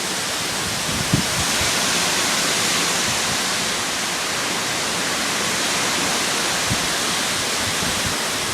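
Heavy storm rain with strong wind, a steady rushing hiss that holds level throughout.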